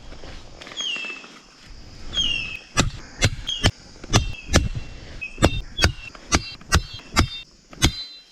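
About a dozen sharp chopping blows in quick succession, roughly two a second, starting about three seconds in. Between them a bird calls several times with short downward-sliding chirps.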